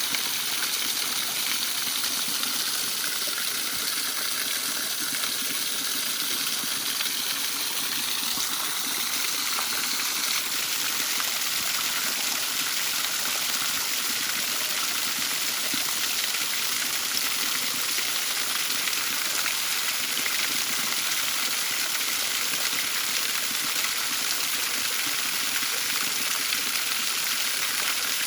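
Waterfall running, a steady, unbroken rush of falling water.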